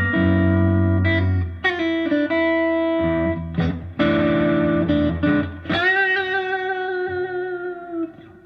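Fender Stratocaster electric guitar through an amplifier, playing shuffle chord changes in B that move to an F sharp chord. About six seconds in, a last chord is struck and left to ring with a wobble in pitch, fading near the end.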